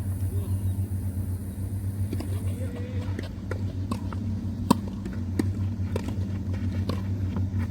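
Tennis ball knocks, ball on racket strings and court, coming roughly every two-thirds of a second from about three seconds in, the loudest a little past the middle. A steady low rumble runs underneath.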